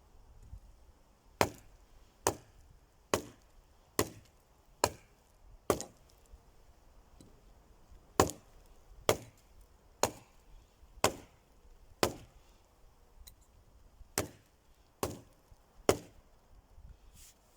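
An axe chopping wood, sharp blows about one a second: a run of six strokes, a short pause, then about eight more, one of them weaker.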